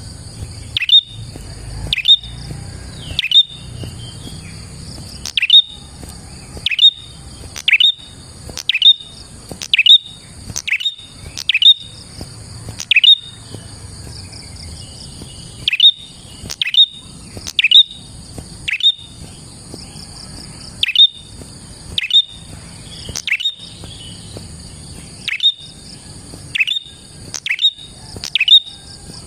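Prenjak (prinia) calling loudly and repeatedly: sharp notes that sweep quickly downward, roughly one a second. A steady high-pitched buzz of insects runs underneath.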